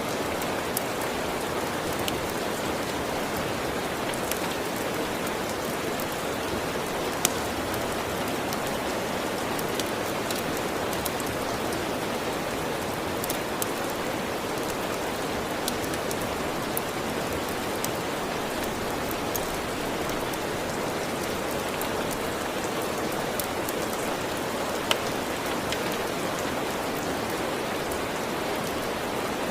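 Steady rain, with scattered sharp crackles and pops of a wood fire on top, two of them noticeably louder.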